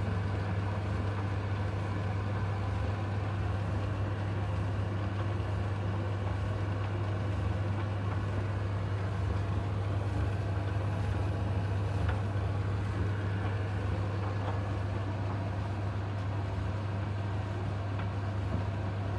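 Zanussi TD61 tumble dryer running with a steady low hum.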